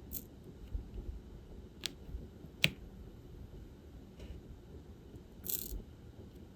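Diamond painting work: a few sharp, scattered plastic clicks and taps as the applicator pen picks up resin drills and presses them onto the canvas. A brief scratchy rustle comes about five and a half seconds in.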